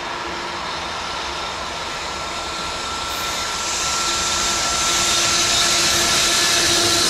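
Electric freight locomotive hauling a container train out of a tunnel and approaching: rail and running noise with a steady hum, growing louder from about halfway through as it draws near.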